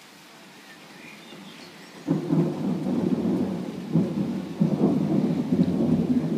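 Thunderstorm noise: a dense crackling rumble of heavy rain and thunder that starts abruptly about two seconds in, after a faint, quiet start.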